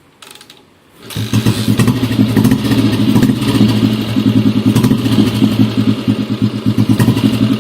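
Restored 1959 Royal Enfield Bullet 350's single-cylinder four-stroke engine, coming in sharply about a second in and then running steadily with a fast, even pulsing beat.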